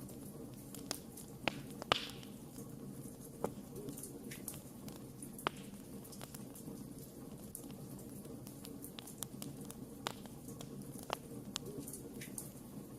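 Wood campfire crackling: irregular sharp pops and snaps over a steady low rush of burning, with a louder pop about two seconds in.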